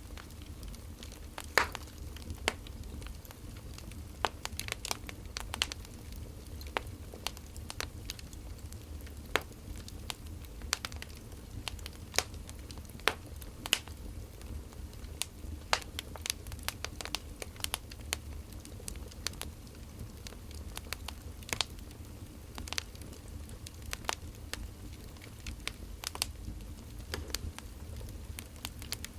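Wood fire crackling, with irregular sharp pops and snaps from the burning logs over a steady low rumble.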